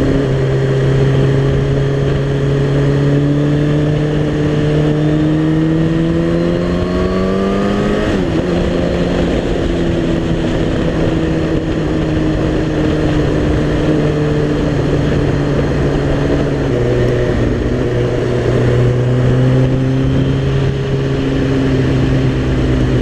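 Suzuki GSX-R sportbike engine under acceleration, its pitch rising for about eight seconds, then dropping sharply at an upshift. After that it runs at a steady cruising pitch, with a small drop later on, over a constant rush of wind noise.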